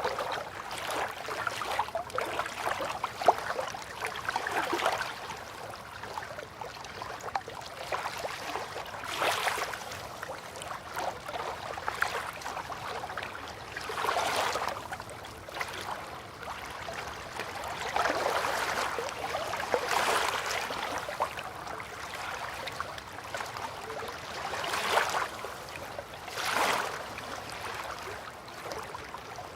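River water lapping at the bank in soft swells that come every few seconds.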